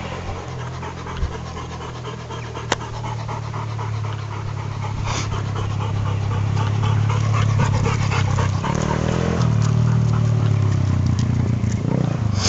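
Pit bike engine running, getting steadily louder as the bike comes nearer, its pitch rising and falling over the last few seconds.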